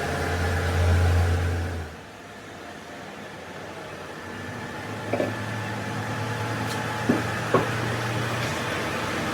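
A workshop machine's motor hums loudly and stops abruptly about two seconds in. A quieter hum starts a few seconds later, with three short knocks near the end.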